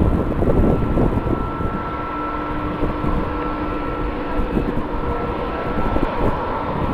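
Jet airliner engines running with a steady high whine over a low rumble, with gusty wind noise on the microphone.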